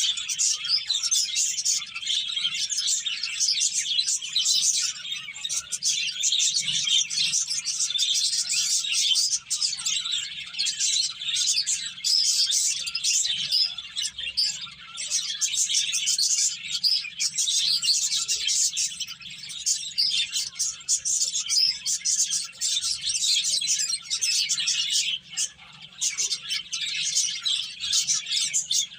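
A group of pet finches chirping continuously: many rapid, overlapping high-pitched calls with no pauses. A faint low hum sits underneath.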